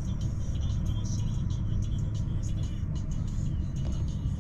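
Inside a moving passenger train: the carriage's steady low rumble from wheels on track, with scattered light clicks and ticks over it.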